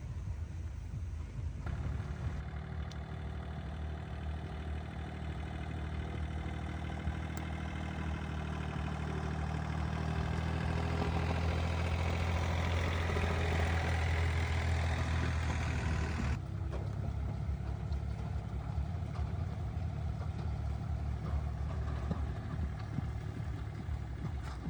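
An engine running steadily at a low hum. From about two seconds in, a louder, rougher layer joins it, swells for some seconds and then stops abruptly about two-thirds of the way through, leaving the hum.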